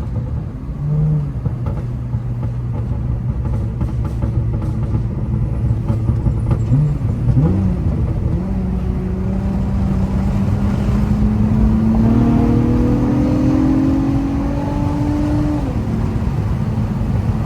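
Honda Accord V6 engine heard from inside the cabin over continuous road rumble. It drones steadily at first, then from about halfway through climbs steadily in pitch as the car accelerates, dropping back near the end at a gear change.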